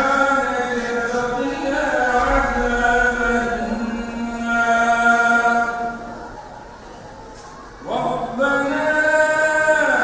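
A man reciting the Quran in the melodic, chanted style, one unaccompanied voice holding long, slowly wavering notes. He pauses about six seconds in and takes up the recitation again about two seconds later.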